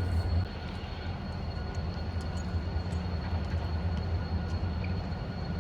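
Steady low rumble of a moving train heard from inside the passenger carriage, with a faint high whine over it; the rumble eases slightly about half a second in.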